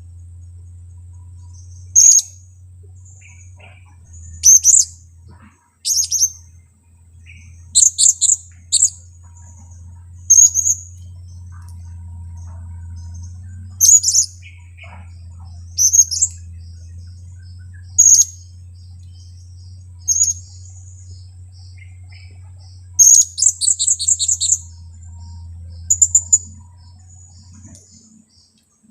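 Blue-crowned hanging parrot (serindit) giving short, sharp, high-pitched calls, singly or in quick clusters of three to five, about every two seconds, over a steady low hum.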